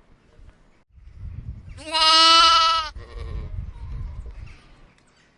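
Sheep bleating: one long, wavering bleat about two seconds in, over a low rumble.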